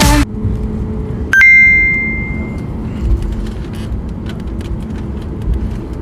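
A single bright electronic chime about a second and a half in, ringing for about a second over the steady low rumble of a vehicle cabin.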